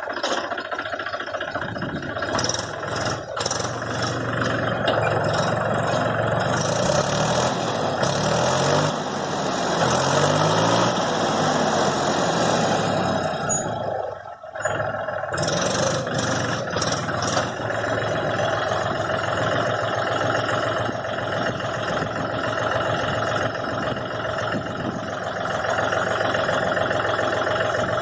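Mahindra tractor's diesel engine running, its note rising and falling as it is revved for a few seconds. It dips briefly about halfway through, then runs on at a steady speed.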